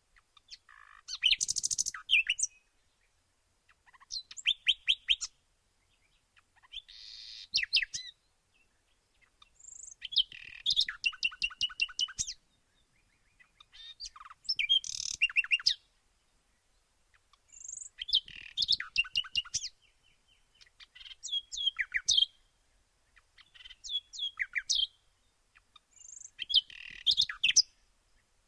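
Wild bird song: phrases of quick, high chirping notes, each one to two seconds long, repeated every few seconds with short pauses between.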